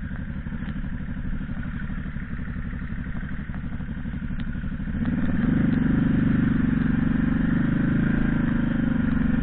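Bugfaster BC-800's small engine running at a steady, low idle. About five seconds in it gets louder and stays there.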